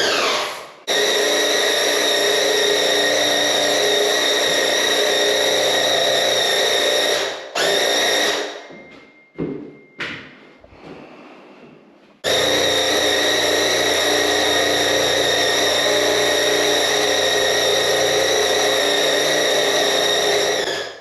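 Graco QuickShot cordless handheld airless paint sprayer spraying paint onto walls. Its motor and pump run with a steady whine while the trigger is held, and the sound stops and restarts as the trigger is let go: one short break just after the start, a brief burst followed by a pause of about four seconds in the middle, then a long steady run until near the end.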